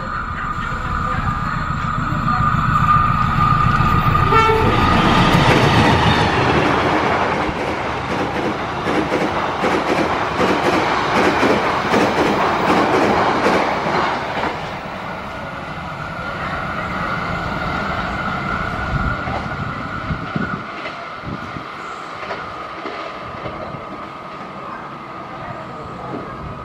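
Diesel-hauled passenger train passing at speed. A low engine rumble builds over the first few seconds, then the coaches' wheels clatter loudly over the rail joints for about ten seconds before fading. A steady high tone sounds at the start and again after the train has passed.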